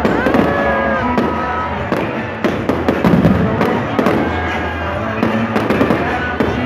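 Fireworks display: aerial shells bursting in a rapid, continuous run of bangs and crackles, with pyromusical show music playing alongside.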